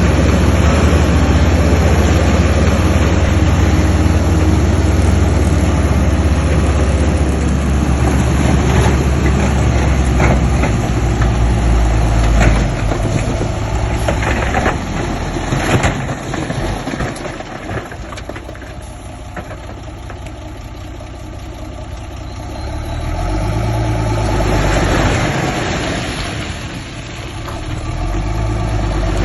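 Heavy earthmoving machinery's diesel engine running, with a loud steady low drone for the first ten seconds or so and scattered knocks. It then grows quieter and rises again twice near the end.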